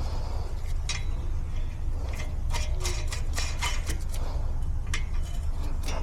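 A vehicle's steady low rumble with irregular sharp clicks and rattles scattered through it.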